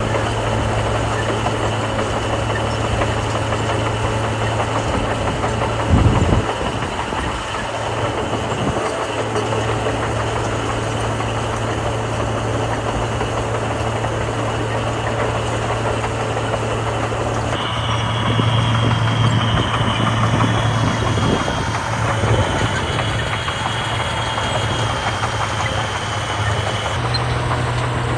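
Heavy construction machinery's diesel engine running steadily, with a loud thump about six seconds in.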